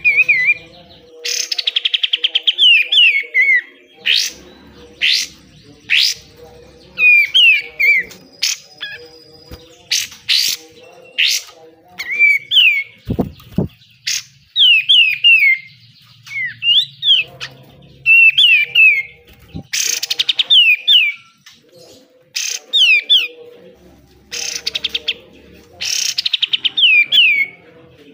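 Kapas tembak bulbul singing in repeated bursts: fast, harsh rattling trills alternating with short, sharp, falling whistled notes, over and over. A faint steady hum sits underneath.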